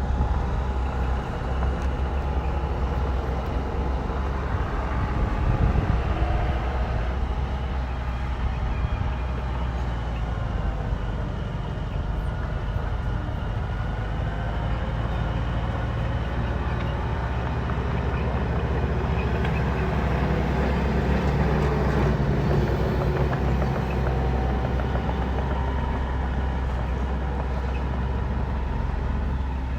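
Bulldozer's diesel engine running steadily with a deep rumble, its pitch shifting now and then.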